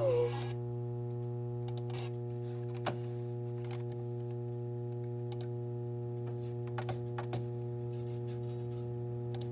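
Steady electrical hum from the VHS tape playback, with faint scattered clicks over it and no programme sound.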